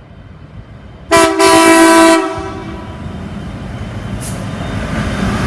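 Diesel locomotive horn sounding one blast of about a second from the lead locomotive of a grain train, with a multi-note chord. It is followed by the low rumble of the locomotive engines, growing louder as the train comes closer.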